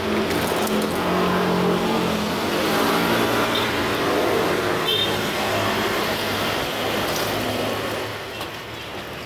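Motorcycle engine running on the road, its pitch shifting with the throttle over road and traffic noise, easing off a little near the end.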